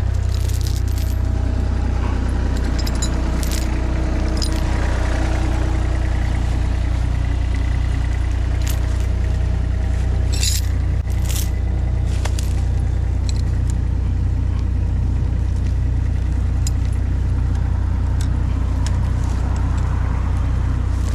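Mini skid steer engine running steadily, with scattered sharp metallic clinks and rattles from the machine and its attachment as it works.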